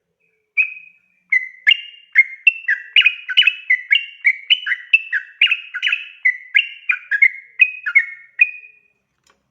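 Yellow-vented bulbul (trucukan) singing a long, rapid run of short bubbly whistled notes, about three a second, starting just after half a second in and stopping near the end.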